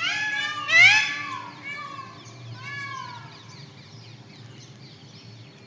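Peafowl calling: four arched, meow-like cries in the first three seconds, the second one the loudest, fading away, with faint small bird chirps after them.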